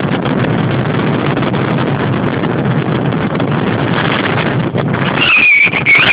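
Strong wind of 20 to 35 knots buffeting the phone's microphone: a loud, steady rushing noise. About five seconds in, a high whistling tone comes in over it.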